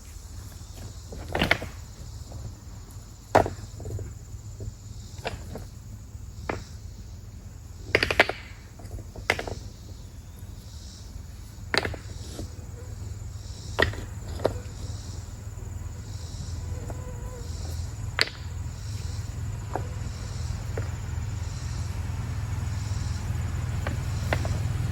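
Stones knocking and clicking against each other now and then, a dozen or so sharp separate clacks at uneven intervals, as rocks are picked up and set down to build a small stone arrangement.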